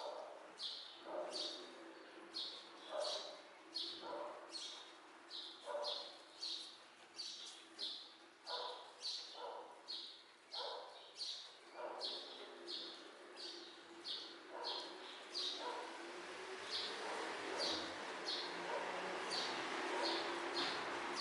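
A bird calling in short, rapidly repeated chirps, about two a second, over light rain, whose steady hiss grows louder in the last few seconds.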